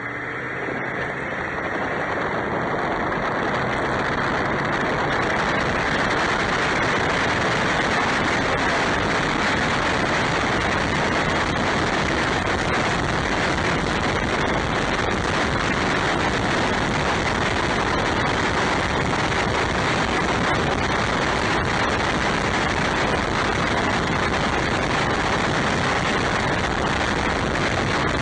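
A truck driving: a steady rush of road and tyre noise that builds over the first few seconds as it gathers speed, then holds even.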